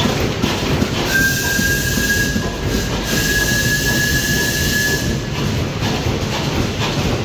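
Steam whistle blown once for about four seconds, starting about a second in: one steady, slightly rising note with a hiss of steam, over the low running rumble of a steam engine.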